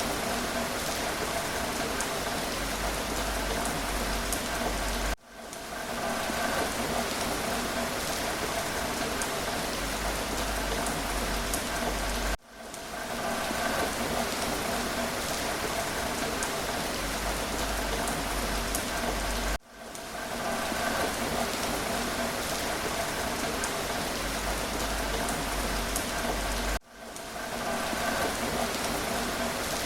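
Steady rain falling, from a short recording played in a loop: about every seven seconds the sound cuts out for an instant and swells back in.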